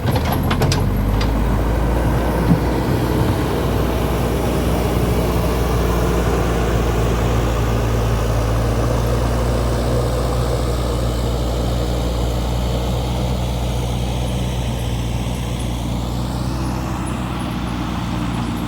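Heavy-equipment diesel engine running steadily, with a few sharp clanks about a second in.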